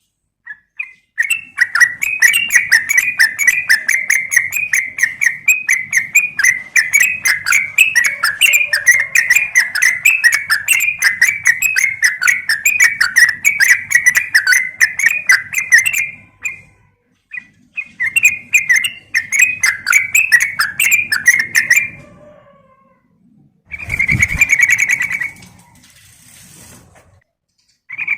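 Yellow-vented bulbul (trucukan) chattering in long fast runs of short bubbly notes, broken by brief pauses, as the call of a female used to lure males. Near the end, a short burst of calling comes with a low thud under it.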